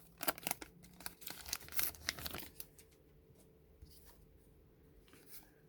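Trading cards being handled and flipped by hand: a quick run of crisp rustles and snaps for the first couple of seconds, then only faint handling.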